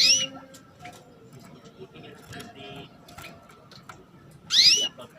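Female canary giving two short rising 'cuit' call notes, one at the start and one about four and a half seconds in. Faint scattered clicks come between the calls.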